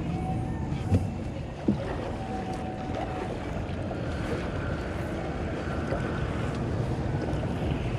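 A kayak on the move: water washing around the hull with wind buffeting the microphone. Two sharp knocks come in the first two seconds.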